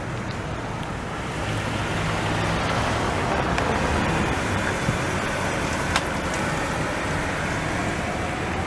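A car driving by, its engine and tyre noise swelling and easing off again.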